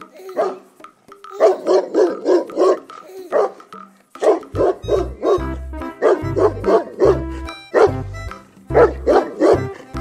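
Dog barking repeatedly in quick runs of several short barks. Background music with a low bass line comes in under the barking about four seconds in.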